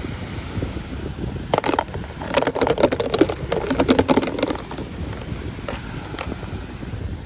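Packaging being handled and opened: a dense run of crackling and clicking for a few seconds, then a couple of single clicks, over a steady low rumble.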